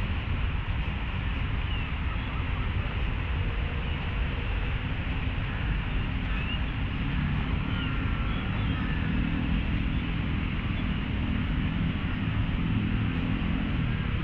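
Steady outdoor city-park ambience: a continuous low rumble of distant traffic, with a few faint, short bird chirps.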